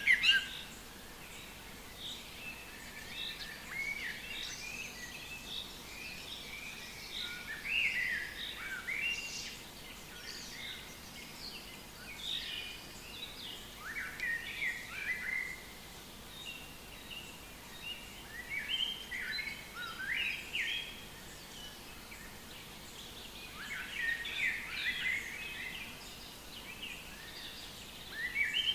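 Songbirds singing: bursts of quick, chirping phrases every few seconds, with short pauses between them, over a faint steady background hiss.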